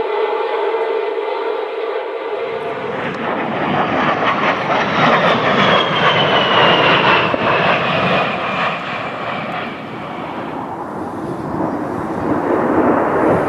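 A steady pitched hum for about two seconds, then a jet aircraft's roar comes in and passes, its high whine sliding down in pitch. The roar eases about ten seconds in and builds again near the end.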